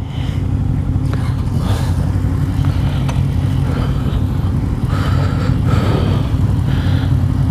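Motorcycle engine running steadily under way, with a continuous low drone from the engine and road.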